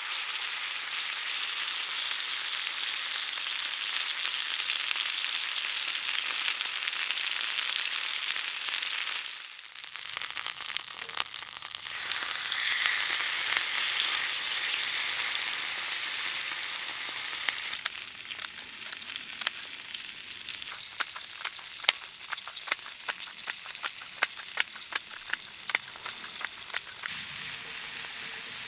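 Wood fire burning with a steady high hiss. In the second half sharp crackling pops come thick and irregular over the hiss.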